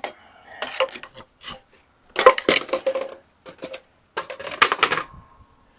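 Metal tools and parts clanking and rattling in three bursts of quick knocks, some with a short metallic ring, as hardware is handled during an engine teardown.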